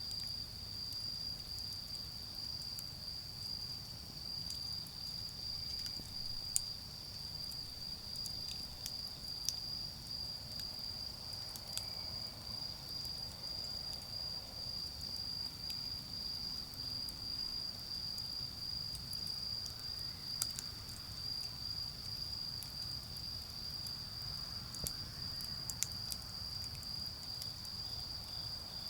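Autumn crickets singing in a steady, high-pitched chorus, with a few sharp pops from a charcoal fire and a faint low rumble of distant road traffic underneath.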